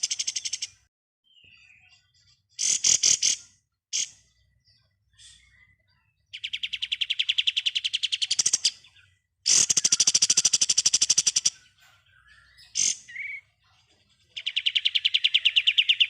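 Kapas tembak songbird singing its 'ngebren' song: long, very fast machine-gun trills of about two seconds each, four of them, with a few short chattering calls between.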